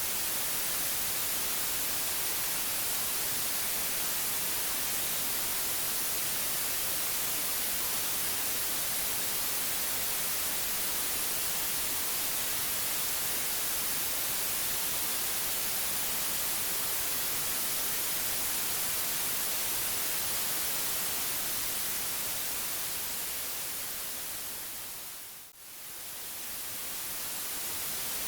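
Steady white-noise hiss, an even rush strongest in the high end. Near the end it briefly fades down almost to nothing and swells back up.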